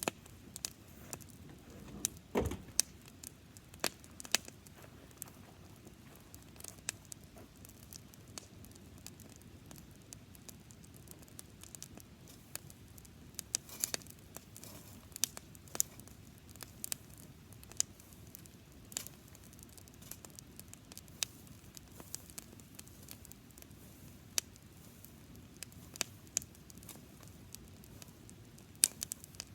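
Campfire of dry grass crackling, with irregular sharp pops and snaps over a faint steady hiss. There is a louder, deeper crack about two and a half seconds in.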